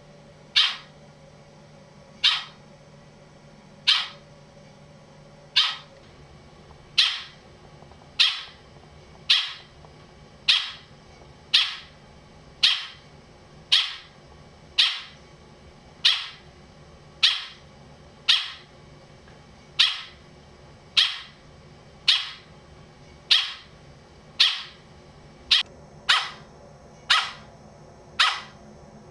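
An animal giving a single short, sharp, bark-like call over and over, evenly spaced about every second and a half and coming a little faster near the end.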